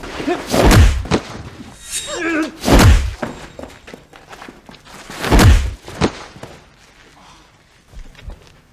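Fistfight impact sound effects: three heavy punch or kick thuds about two seconds apart, with a short grunt or shout between the first two.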